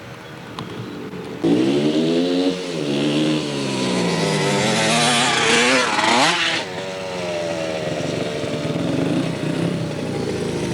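Dirt bike engines revving as they ride, the pitch rising and falling with the throttle. The engine sound comes in suddenly and loud about a second and a half in, climbs to a high rev about halfway through, then runs steadier.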